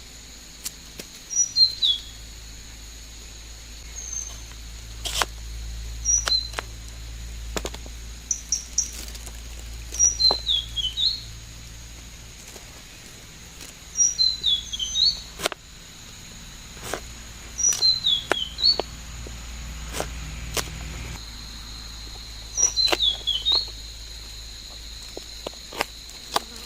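A songbird repeating a short phrase of quick, falling whistled notes about every three to four seconds, over a steady high insect drone. Occasional single sharp knocks from a knife chopping vegetables.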